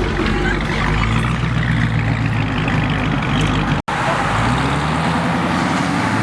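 Car engines running at road speed with road noise. The sound cuts out for an instant a little under four seconds in, and after that an engine note rises and then holds.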